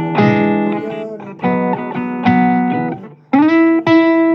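Blues guitar playing sustained chords between sung lines, with a short break about three seconds in before a fresh chord is struck.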